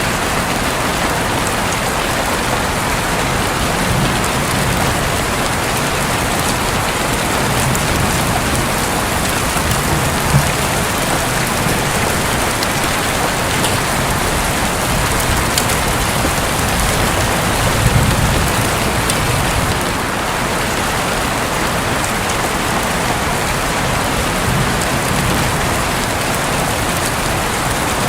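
Heavy rain falling steadily on a roof, with occasional low rumbles of thunder, the largest about 18 seconds in.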